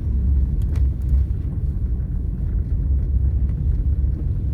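Steady low rumble of a car driving slowly over a snow-covered road, heard from inside the cabin.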